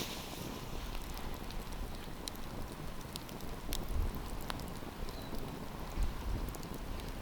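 Wood campfire crackling: a steady hiss with sharp pops and snaps scattered irregularly through it, and a couple of brief low rumbles about four and six seconds in.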